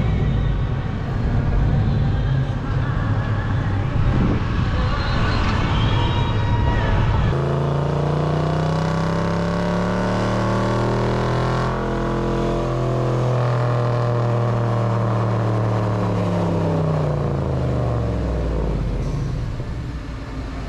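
Vehicle engine sound. For about seven seconds it is a dense, noisy running; then it changes abruptly to a single engine whose pitch climbs slowly and falls back again over about ten seconds.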